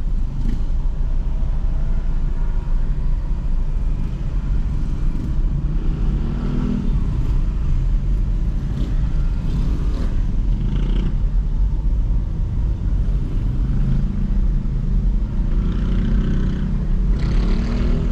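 Steady low rumble of a car's engine and tyres heard from inside the cabin while driving, with a few louder swells about six, ten and sixteen seconds in.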